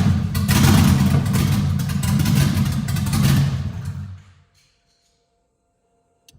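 Swapped-in LS V8 engine running with its level rising and falling, then dying out about four seconds in. The owner believes it is starving because the tank is close to empty. A faint steady tone follows, with a click near the end.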